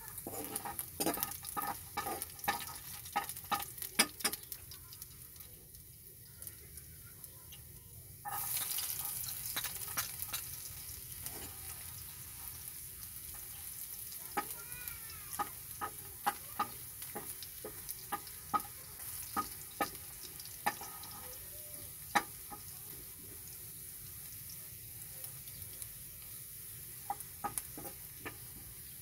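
Pork and chopped garlic sizzling in hot oil in a wok, with a metal spatula repeatedly clicking and scraping against the wok as it stirs. About eight seconds in the sizzle suddenly grows louder, as the garlic goes into the hot oil.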